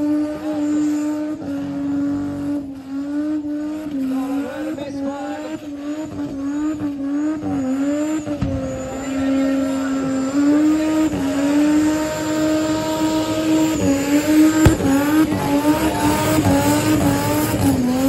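Turbocharged Ford AU Falcon's Intech straight-six held at high revs through a burnout, its pitch nearly steady with small repeated dips, over the noise of spinning rear tyres.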